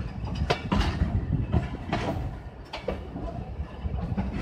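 Passenger coach of the Hazara Express rolling along, heard from an open window: a steady low rumble of the running gear with irregular sharp clacks as the wheels cross rail joints.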